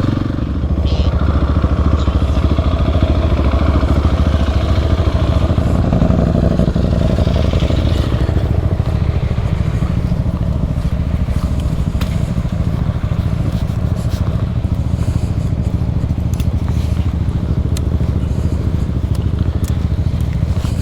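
Adventure motorcycle engine running steadily while riding at a constant pace, with scattered sharp ticks in the second half.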